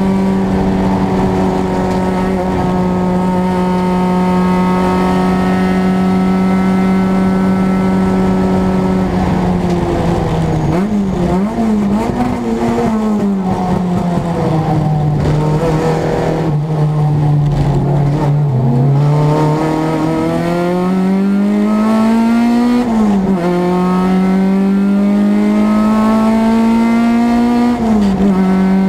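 Renault Clio race car's engine heard from inside the cockpit. It holds at steady high revs for about nine seconds. The revs then fall in a series of dips through downshifts and hang low through a slow corner. They climb again from about twenty seconds, with a sharp drop at each of two upshifts, one of them near the end.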